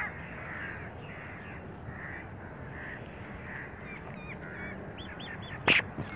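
Birds calling in a steady series, roughly two calls a second, joined by a few short higher chirps near the end. A single sharp knock shortly before the end is the loudest sound.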